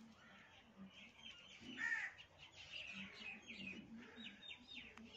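Birds calling in the background: a louder call about two seconds in, then a quick run of short high chirps.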